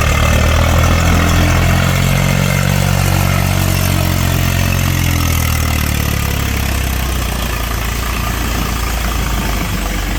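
Tractor diesel engine running loud and steady, its low drone easing somewhat in the second half.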